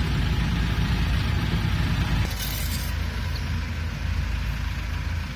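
A heavy engine running steadily with a deep hum, with a short hiss about two seconds in.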